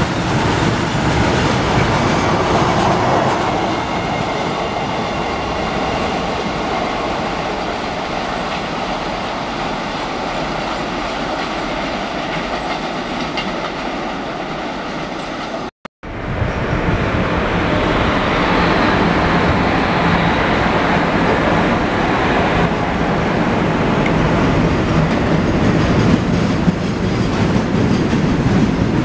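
Freight train of tank wagons rolling past at close range: steady rumble and clatter of the wagon wheels over the rail joints. The sound cuts off abruptly about halfway through and resumes on another tank-wagon train passing, just as loud.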